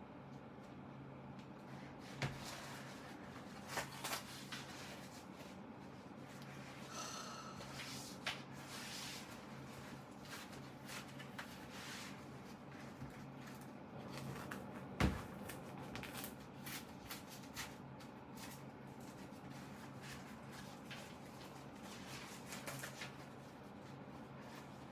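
Hands working on a synthetic-leather Bible cover as it is taken apart: scattered rustles and small clicks of material being handled, with a few sharper clicks, the loudest about fifteen seconds in, over a steady low hum.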